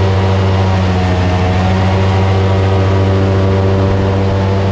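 Boat engine running loud and steady, a deep, even hum.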